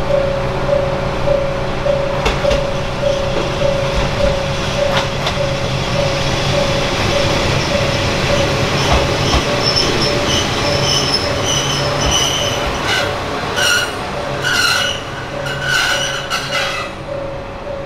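A Kanto Railway Joso Line diesel railcar pulls into the station with its engine running, over the steady ding of a level-crossing warning bell about twice a second. Near the end, high-pitched brake and wheel squeal comes in repeated bursts as the train slows to a stop.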